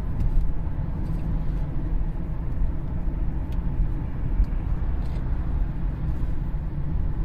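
Steady low road and drivetrain rumble inside the cabin of a 2013 Cadillac CTS at cruising speed, with a few faint ticks. There is no distinct vibration drone from the driveshaft.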